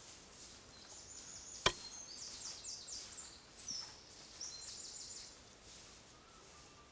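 A songbird singing quick runs of high, stepping notes, with one sharp crack about a second and a half in that is the loudest sound.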